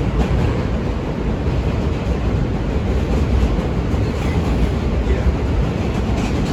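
New York subway J train running between stations, heard from inside the car: a steady, loud rumble of wheels on the rails.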